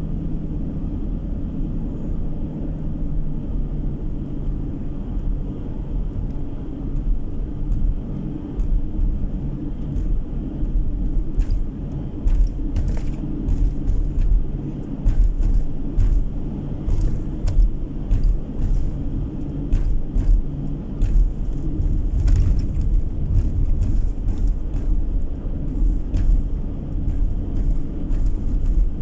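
Car being driven, heard from inside the cabin: a steady low engine and tyre rumble, with frequent short knocks and rattles from about twelve seconds in.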